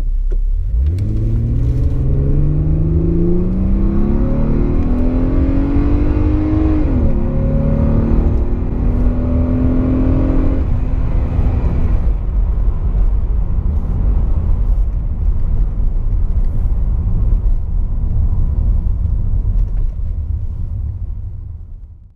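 Vauxhall Omega's 3.2 24-valve V6, with a K&N cone air filter and stainless cat-back exhaust, accelerating at full throttle, heard from inside the cabin. The engine note rises steadily, drops as the automatic gearbox upshifts about seven seconds in, and climbs again. About ten and a half seconds in the throttle comes off, leaving a steady low road and wind rumble.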